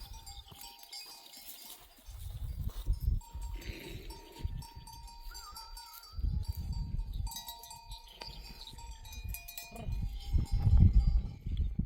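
A sheep flock on the move, with livestock bells ringing steadily and a bleat now and then. Bursts of low rumble come and go.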